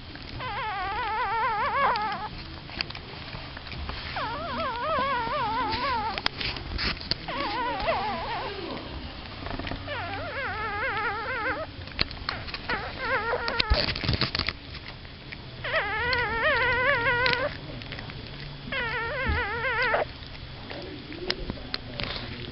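Newborn Pomeranian puppies, eyes still closed, crying in high, wavering squeals. There are about seven cries of one to two seconds each, with brief rustling between them.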